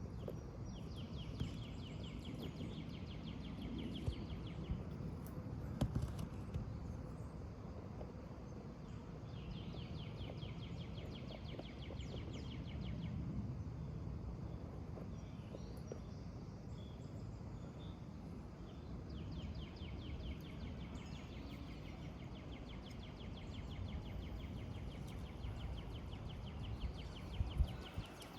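A small bird sings a long, rapid, even trill three times, each lasting three to four seconds and spaced several seconds apart, over a steady low outdoor rumble. A few faint taps come in between.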